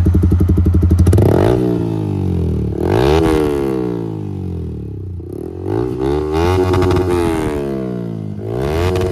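Yamaha R15 V3's single-cylinder engine through an aftermarket exhaust, held loud and steady at first, then revved up and down several times, the pitch rising and falling with each blip.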